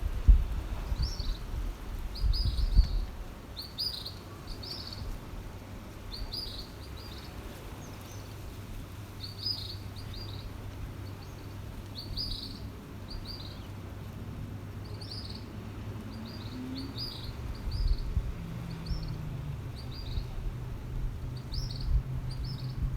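Small birds chirping: short, high chirps repeated every second or so. There is low rumbling wind noise in the first few seconds, and a steady low hum grows stronger in the second half.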